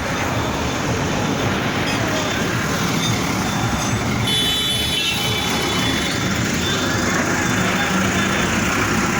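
Steady road traffic noise with vehicles passing, and a brief high-pitched tone about four and a half seconds in.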